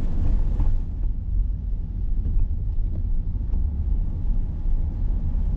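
Steady low rumble of a car on the move, heard from inside the cabin: engine and road noise, with a brighter hiss that fades about a second in.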